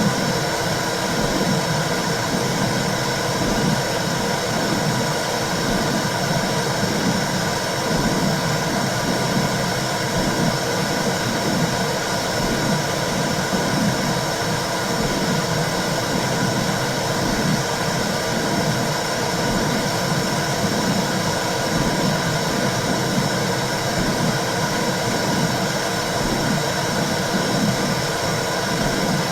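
Womb sound for soothing babies: a steady whooshing noise with a regular low pulse, about once a second.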